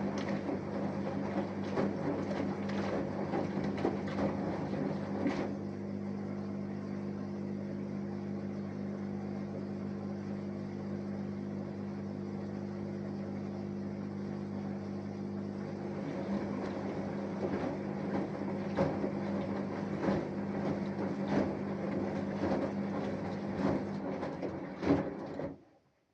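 Samsung Eco Bubble 6.5 kg washing machine with an inverter motor running a wash: a steady motor hum with irregular knocks from the drum over it. The knocks ease off for about ten seconds in the middle, return, and the whole sound cuts off abruptly near the end.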